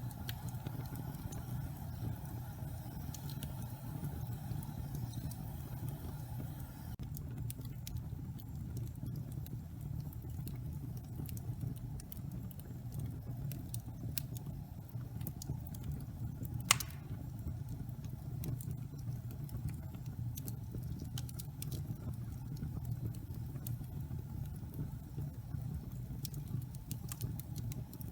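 Wood fire burning in a fireplace: a steady low rumble with scattered small crackles, and one sharp pop a little past halfway.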